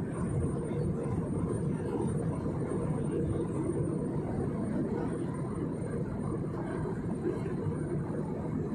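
Steady cabin noise inside an airliner: an even, low rumble of engines and rushing air, unbroken throughout.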